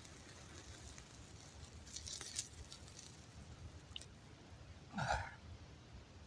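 Faint campfire crackling with a short hiss about two seconds in, then a brief low throat sound from a person about five seconds in.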